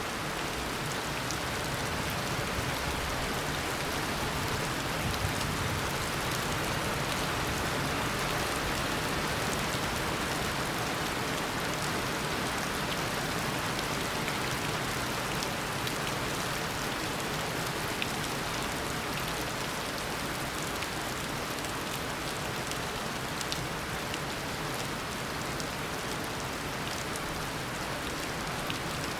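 Steady heavy rain pouring down in a tropical rainforest downpour, an even wash of falling water with scattered drops ticking on surfaces.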